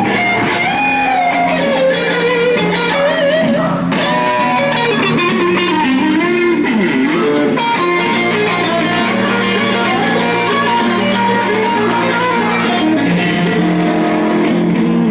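Electric guitar instrumental music, with melody notes bent and slid in pitch over sustained low notes.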